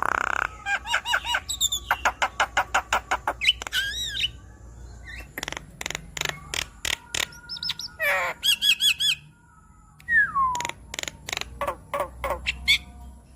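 Javan myna (jalak kebo) singing a varied, busy song: fast runs of repeated harsh notes and clicks mixed with warbled whistles and squawks, with a falling whistled slur about two-thirds of the way through.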